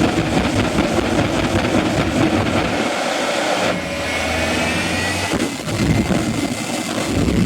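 Jet engines of the Hell Fire jet-powered Freightliner semi truck running loud and steady, with a high whine that rises gently in pitch from about halfway through.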